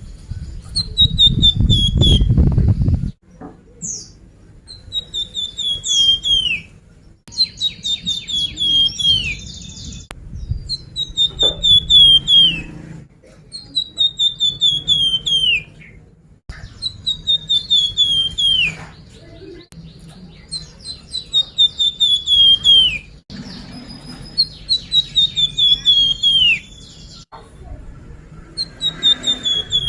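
Songbird known to Indonesian bird-keepers as flamboyan, singing the same phrase over and over, about every four seconds: a quick falling run of high chirps ending in an upward flick. A low rumble runs under the first few seconds.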